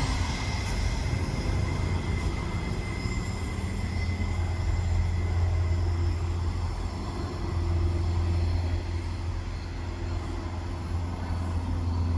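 Electric suburban train at the station, a steady low hum and rumble, with a high wheel squeal fading out in the first second.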